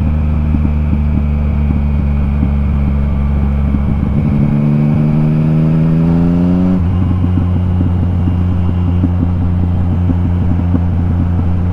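Yamaha MT-09's three-cylinder engine through an Akrapovic exhaust, running steadily on the downhill with the exhaust popping and crackling. About four seconds in the revs rise, and near seven seconds the pitch drops suddenly before the engine settles into a steady run again.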